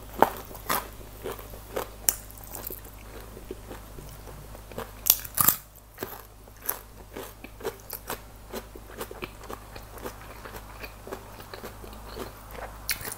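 Crispy baked chicken wings being bitten and chewed, the crisp coating crunching in a run of sharp crackles, loudest around five seconds in.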